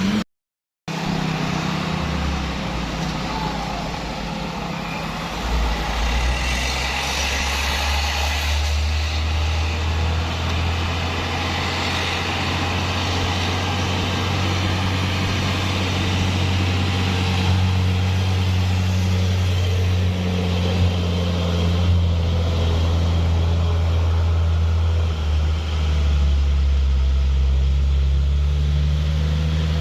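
Heavy diesel truck engine running under load, a steady low drone that gets louder about five seconds in.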